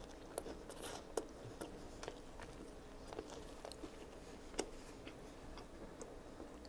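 A person chewing a mouthful of a chicken spiedie sandwich on a soft sub roll, with scattered faint mouth clicks, the sharpest about a second in and again past the middle.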